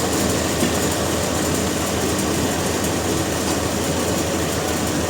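Sawmill machinery running steadily: a dense, even mechanical noise over a low hum.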